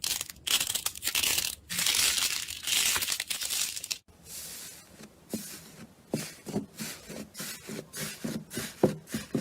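Slime being worked by hand. For about four seconds it gives a dense crackly crunching, then after a sudden break it makes a run of short pops, about three or four a second.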